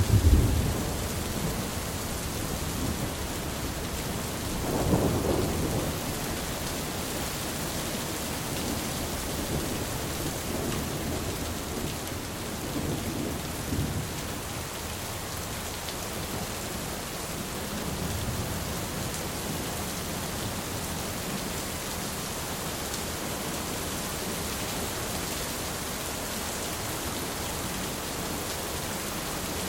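Thunderstorm: steady rain falling, with rolling thunder. A rumble dies away in the first second, a louder roll of thunder comes about five seconds in, and fainter rumbles follow later.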